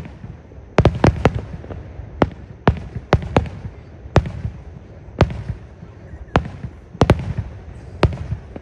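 Aerial fireworks shells bursting, a dozen or more sharp bangs at irregular intervals, some in quick pairs, over a continuous low rumble from the display.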